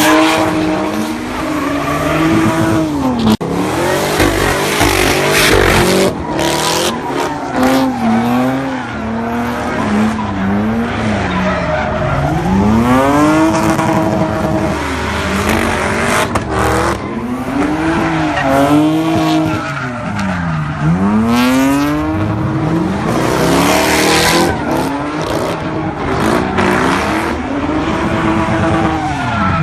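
A car engine revving up and falling back again and again, its pitch rising and dropping every second or two, with the tyres squealing and skidding as the car spins donuts.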